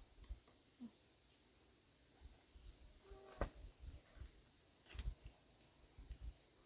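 Faint, steady high-pitched chirring of insects, crickets or similar, pulsing rapidly. About three seconds in comes a brief squeak with a sharp click, and there are a few soft knocks.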